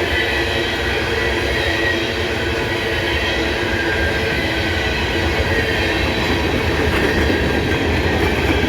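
Freight train cars rolling past on the rails as the train slows, a loud steady rumble of wheels on track.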